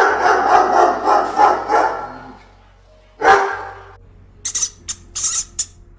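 Small dog barking: a rapid run of barks for about two seconds, then one more bark about a second later. A few short, high ticks follow near the end.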